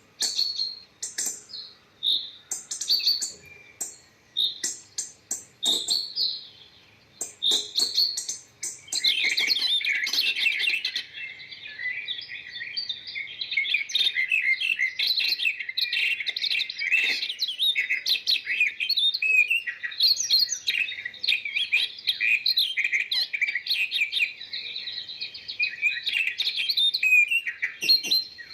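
Small birds chirping: scattered separate high chirps at first, then, about a third of the way in, a dense continuous chatter of many birds calling at once.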